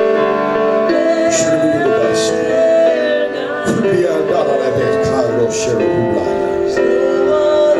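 Slow gospel church music: sustained keyboard chords held under a voice singing a wavering melody.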